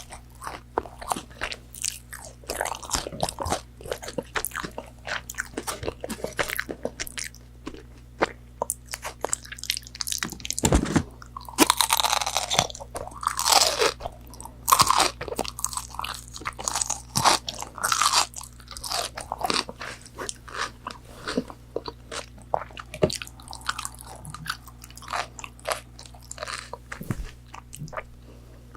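Close-miked crunchy biting and chewing of McDonald's fried chicken nuggets, a steady run of crackling crunches that grows louder for a few seconds in the middle.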